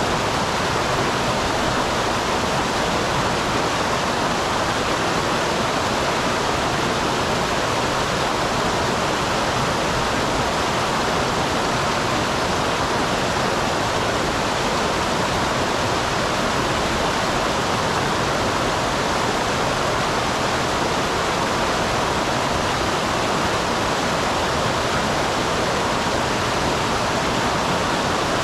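Small waterfall on a mountain stream, water pouring and splashing in a steady, unbroken rush.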